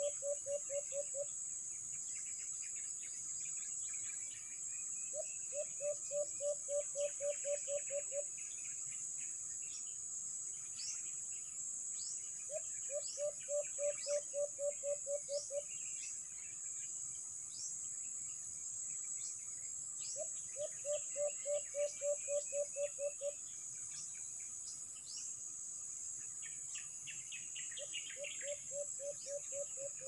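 A decoy bird calling: a run of about ten even, low hooting notes lasting about three seconds, repeated every seven seconds or so. Under it are a steady high insect drone and scattered quick chirps from other birds.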